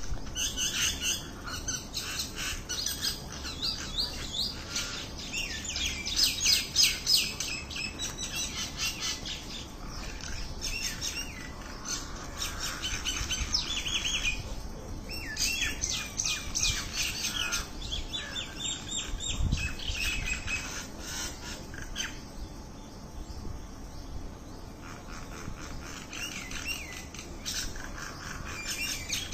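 Small birds chirping and twittering in quick, high-pitched runs of notes, loudest about six to seven seconds in, over a faint steady hiss.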